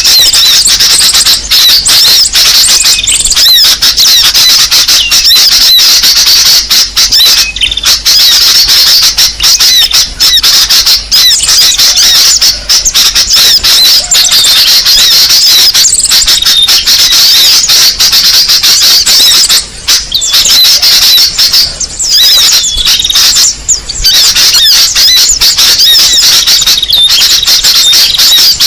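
A dense, loud, unbroken chorus of many small birds' rapid high chirps and chattering calls, from a bird-lure (pikat) recording made to draw small songbirds in.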